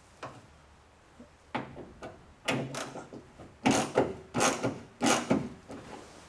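Ratchet wrench tightening bolts: an irregular run of sharp metallic clicks and clanks starting about a second and a half in, loudest in the middle.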